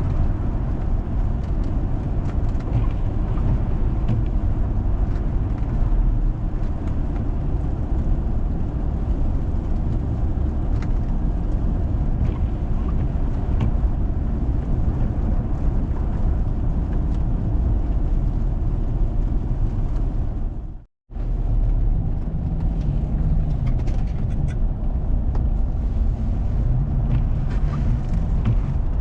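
A car or 4x4 driving on a snowy road: a steady low rumble of engine and tyres. It cuts out abruptly for under a second about two-thirds of the way through.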